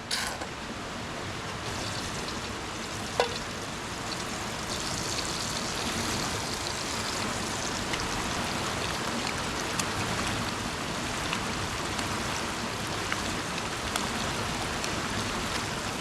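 Cooking oil sizzling in a frying pan over a campfire, with scattered small pops and one sharp metal clink about three seconds in.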